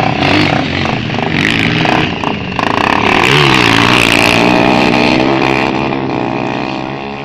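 Dirt bike engines revving, their pitch rising and falling with the throttle. The sound is loudest around the middle and fades toward the end.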